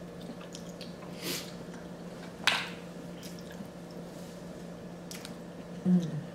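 Close-miked eating sounds of people chewing king crab and seafood: wet squishing and smacking, with two louder wet smacks about a second and two and a half seconds in. Near the end comes a short hummed sound from an eater, and a steady low hum runs underneath.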